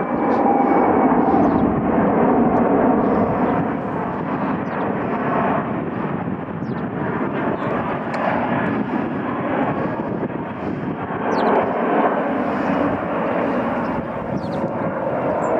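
Jet noise from a Boeing C-17 Globemaster's four Pratt & Whitney F117 turbofan engines as the heavy transport flies by: a steady, loud rush that swells and eases slightly, with a faint falling whine near the start.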